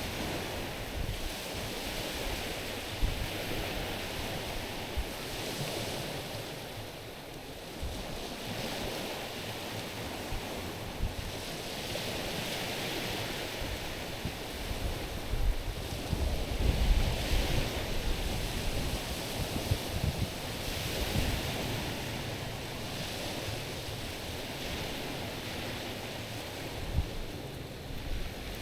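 Small sea waves lapping and washing over a stony shore, swelling every few seconds. Gusts of wind buffet the microphone now and then.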